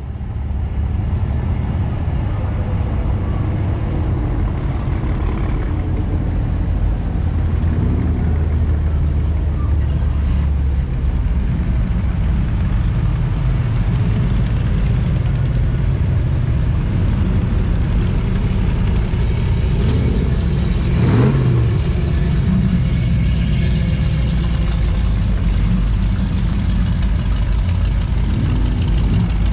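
Car engines running with a steady low rumble, with a brief louder swell about two-thirds of the way through.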